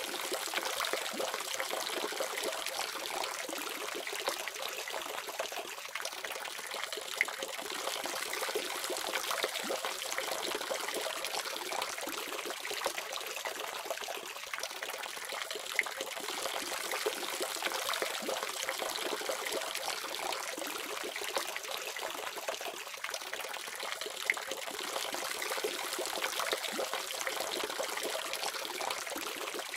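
Water running steadily from a faucet, an even splashing trickle with small drips and splashes.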